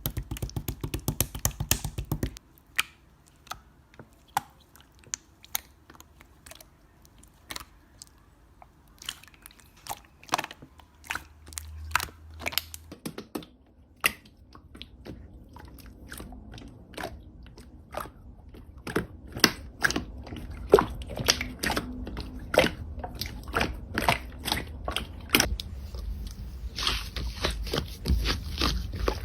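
Slime being pressed and kneaded by hand, making sharp sticky clicks and pops. The clicks come sparsely at first, then grow denser and louder in the second half.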